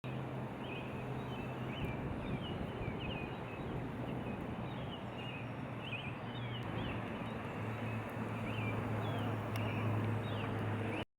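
Small birds chirping: many short, quick chirps over a steady outdoor noise with a low hum underneath. It cuts off suddenly near the end.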